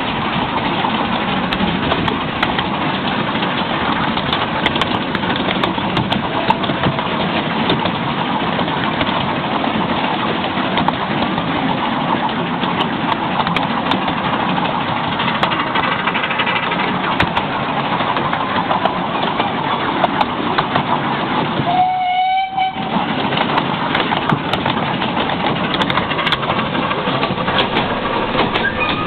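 Miniature railway train under way, heard from a passenger seat: a steady rolling rumble of wheels on the track with many small clicks. The noise dips briefly about three-quarters of the way through, when a short pitched tone sounds.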